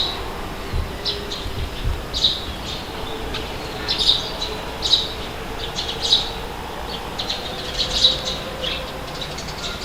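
Birds calling: short, sharp high calls repeated about once a second over a steady background of wind, with a few low gusts in the first two seconds.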